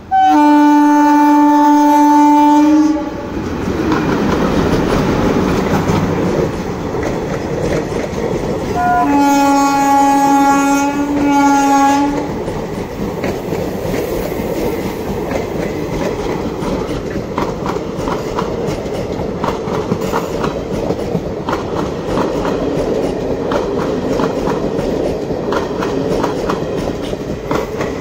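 An electric locomotive hauling a passenger train gives two long horn blasts: one at the start lasting about three seconds, and another about nine seconds in, with a brief break just before it ends. Between and after the blasts come the rumble of the locomotive and coaches passing at speed through the station without stopping, and the rhythmic clickety-clack of the wheels over the rail joints.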